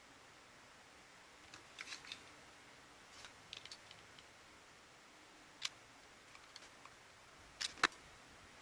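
Scattered light clicks and taps of small parts or tools being handled, with a pair of sharper clicks near the end.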